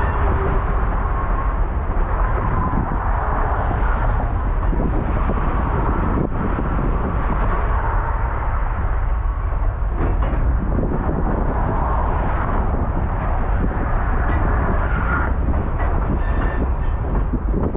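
Baldwin-Westinghouse electric steeplecab locomotive running along the track: a steady, loud rumble.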